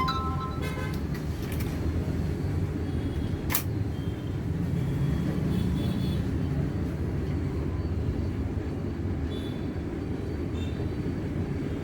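Steady low rumbling background noise, with a few light clicks near the start and one sharp click about three and a half seconds in.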